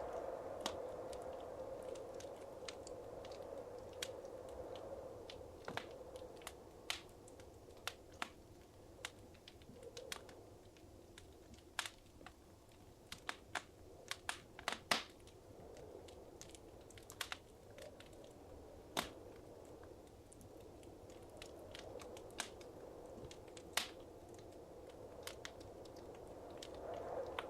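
Wood fire crackling in a fireplace: irregular sharp pops and snaps over a low steady rush of flames, the pops thickest around the middle.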